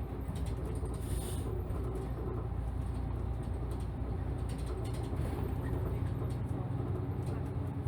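Ride heard from inside a city route bus under way: the engine runs with a steady low hum, and small creaks and rattles come from the body and fittings. The engine note grows a little stronger about five seconds in.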